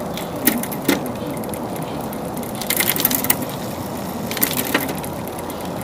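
Bicycle drivetrain turning while the gears are shifted: the chain running over the Shimano rear cassette with sharp clicks as the derailleur moves it from cog to cog, a quick cluster of clicks about three seconds in.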